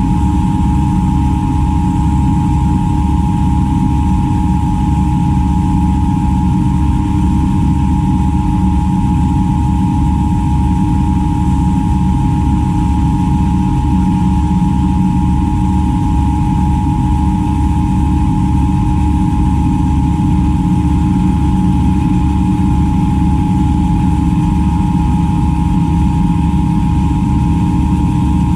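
Milling machine running steadily while machining a brass crank disc, its motor and spindle giving a constant low hum with a steady whine above it.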